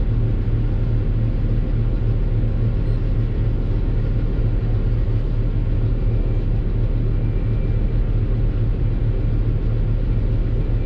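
Doosan DX600 excavator's diesel engine running steadily under work, heard from inside the cab: a deep, even drone with no sharp knocks.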